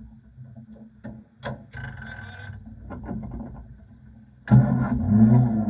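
Vintage race car engine starting with a sudden burst about four and a half seconds in, then running with the revs rising and falling. Before it, a few clicks and a short high whine.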